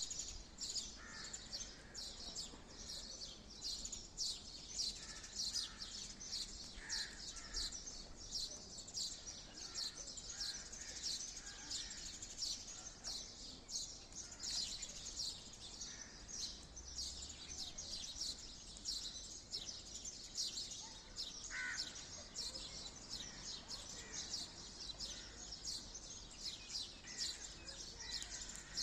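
Bird chirping: a steady stream of short, high, falling chirps, two or three a second, with occasional lower notes mixed in.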